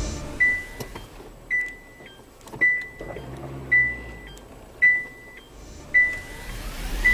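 An electronic beeper sounding seven times, evenly spaced at about one beep a second; each beep is a steady high-pitched tone lasting about half a second.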